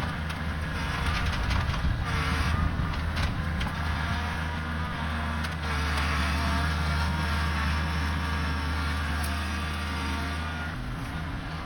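Kubota tractor's diesel engine running steadily under load, with a shifting whine over the low drone and scattered knocks and cracks in the first few seconds. The engine drone drops off about a second before the end.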